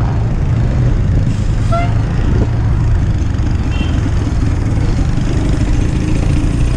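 Steady low rumble of wind and road noise while riding a bicycle, with two brief faint high chirps, about two and four seconds in.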